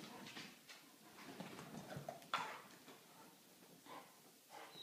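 Faint scuffling and tapping of dogs at play, with one sharper click a little over two seconds in.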